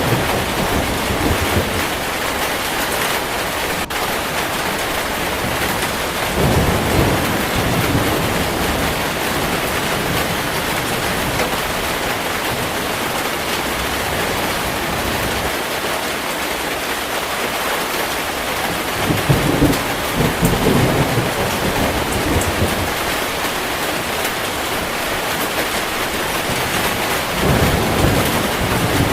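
Heavy rain falling steadily, with low rolls of thunder that swell and fade four times: at the start, about a quarter of the way in, about two-thirds of the way in, and near the end.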